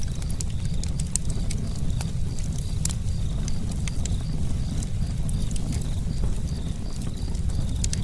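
Campfire burning: irregular sharp crackles and pops from the wood over a steady low rumble of the flames.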